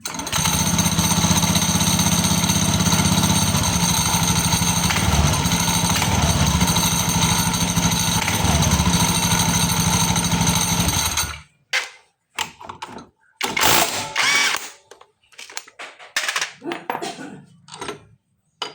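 Automatic scooter running with a rattling noise from the CVT, which the video sets out to fix. It stops abruptly about eleven seconds in, followed by a few short, irregular knocks.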